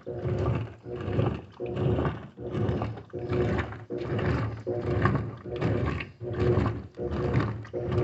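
GE 15 kg washing machine agitating: the motor drives the agitator back and forth in a steady rhythm of about one stroke every three quarters of a second, each stroke a surge with a hum under it.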